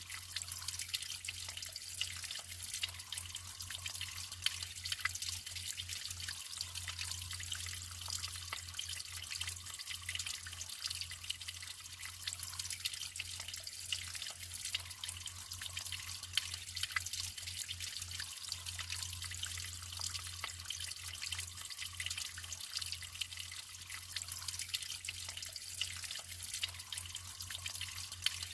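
Naturally running water trickling and splashing steadily, a bright hiss dotted with small drips and splashes.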